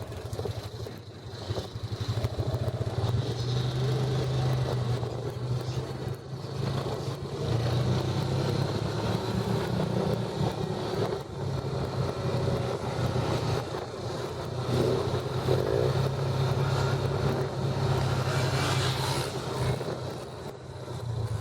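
Motor vehicle engine running steadily while driving, its low drone rising and falling slightly in level.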